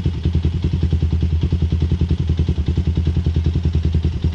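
Honda TRX400EX's single-cylinder four-stroke engine running at a steady idle with an even, rapid exhaust beat of about a dozen pulses a second. The engine is running after a fix for a ticking noise that the owner believes is now solved.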